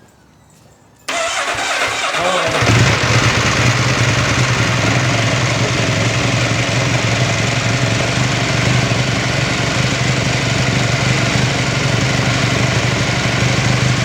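Honda RC213V-S superbike's V4 engine starting about a second in, its pitch rising briefly as it catches, then settling into a steady idle.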